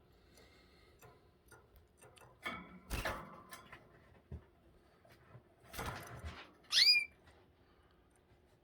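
Canaries in a breeding cage: soft clicks and rustles of the birds moving about, a softer call about two and a half seconds in, and one loud, short chirp that sweeps up in pitch about seven seconds in.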